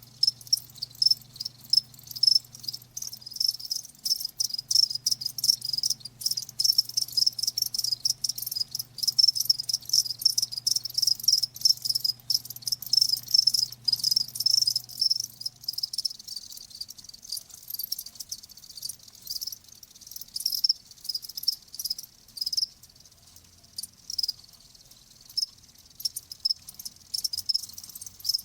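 Crickets chirping: a dense run of rapid, high-pitched chirps repeated over and over.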